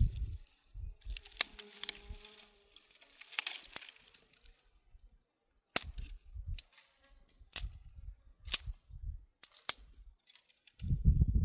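A fly buzzing briefly near the microphone, among scattered sharp clicks and irregular low bumps.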